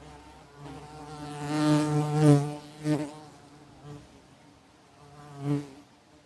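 Wasp wings buzzing as wasps fly close past the microphone, the buzz swelling to its loudest about two seconds in, with shorter passes about three seconds and five and a half seconds in.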